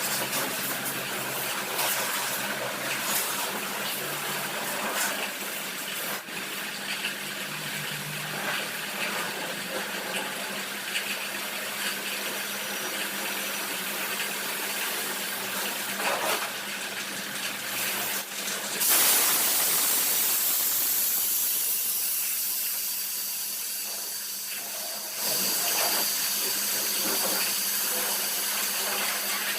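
Pressure washer spraying water, a steady hiss over a low hum. Partway through the spray gets suddenly louder, fades off, then surges again near the end.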